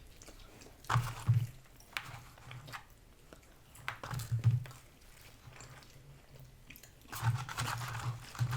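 Close-up chewing and biting of fast food, with short crunches and wet mouth clicks coming in clusters, busiest about a second in, around four seconds in and near the end.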